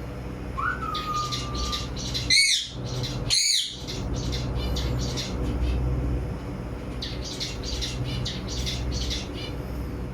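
Parrots calling: two loud squawks a second apart, with a whistled note before them and rapid chirping before and after, over a steady low rumble.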